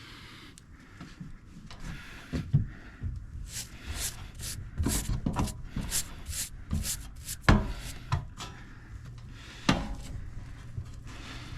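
A brush scrubbing a dirty evaporator coil coated with cleaner, in short rasping strokes about two or three a second, with a few knocks against the coil housing. A low steady hum runs underneath.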